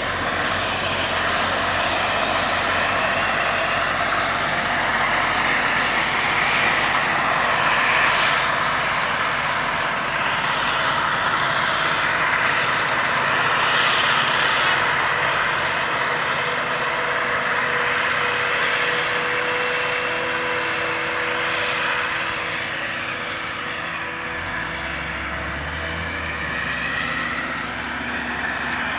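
Claas Jaguar 870 self-propelled forage harvester running, a loud steady engine and machinery din, with a faint steady whine joining in around the middle.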